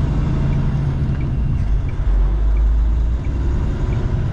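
Steady low rumble of a semi-truck's engine and road noise as the truck drives, with a faint tick repeating about every 0.7 seconds.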